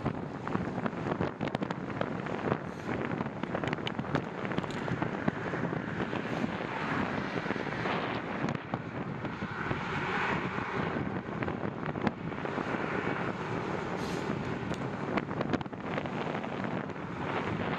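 Wind buffeting the microphone on a moving bicycle: a steady rushing noise with frequent crackles, swelling a little near the middle.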